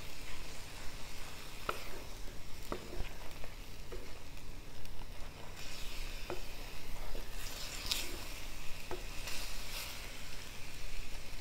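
Chicken pieces sizzling in hot oil in a pan as they are stirred with a wooden spatula, with a few light knocks and scrapes of the spatula. The sizzle grows louder about halfway through as the water released from the chicken fries off.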